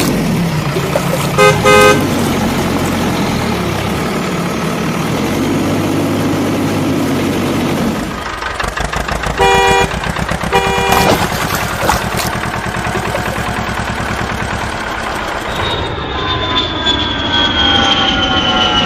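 Vehicle engine rumbling steadily, with a horn honking twice in quick succession about a second and a half in and again twice around ten seconds in. Near the end a high whine comes in and falls slowly in pitch.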